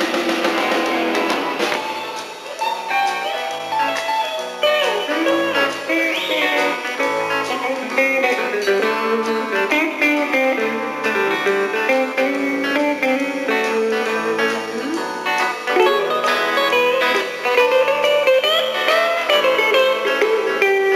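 Live country-rock band playing an instrumental passage: guitar notes over a walking bass line.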